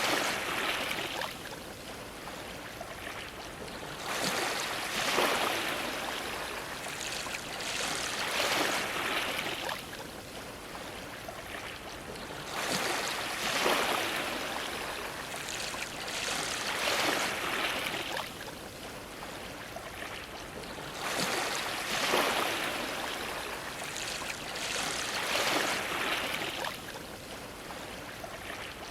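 Ocean waves washing against a dock, the rushing water swelling and falling away about every four seconds.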